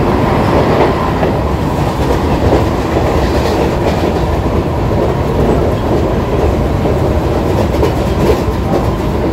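ICF EMU local train coach running along the track, heard from inside through an open window: a steady loud rumble of wheels on rail with a few clacks over rail joints.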